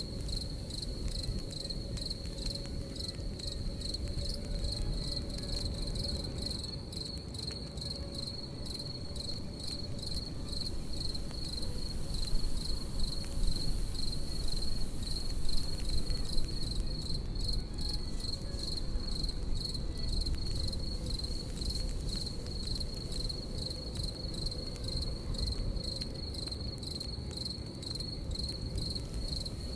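Crickets chirping in a steady, fast-pulsing high trill, over the crackle of a campfire and a low rumble.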